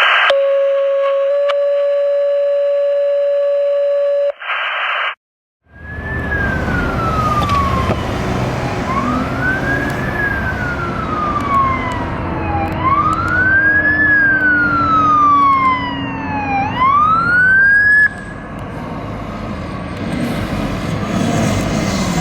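Fire engine responding with its electronic wail siren sweeping slowly up and down over engine and road noise, joined by a second, higher siren partway through. The sirens cut off about eighteen seconds in, leaving the truck's engine and road rumble. Before this, the opening holds about four seconds of a steady held tone.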